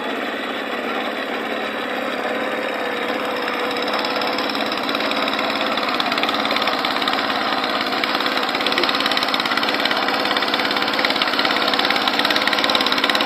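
Farm tractor engine running steadily, growing a little louder about four seconds in.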